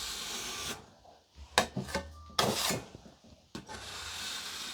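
A spatula scraping buttercream icing in a few short, separate strokes, with a faint steady hiss at the start and end.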